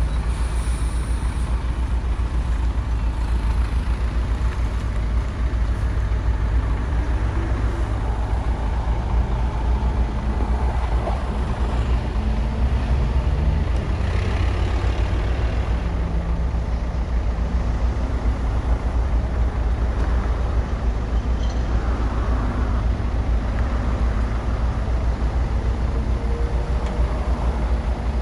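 Bulldozer's diesel engine running steadily under load, a heavy continuous low rumble.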